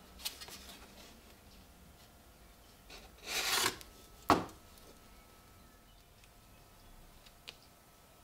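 Workshop handling sounds: a few faint clicks, then a short rubbing scrape, then a single sharp knock with a brief ring. The knock is the loudest sound.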